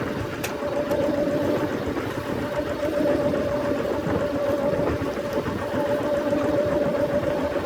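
Fishing boat's engine running steadily, a constant drone with a steady hum over a rough rumble.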